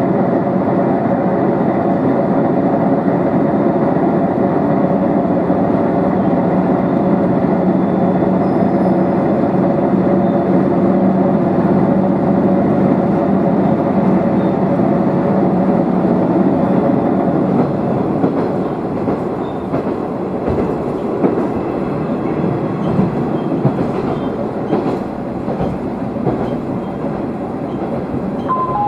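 Diesel railcar running along the line, heard from inside the car: a steady engine drone with wheel and rail noise. About two-thirds of the way through the drone drops away and the car runs more quietly, with light clicking from the wheels. A two-note chime sounds at the very end.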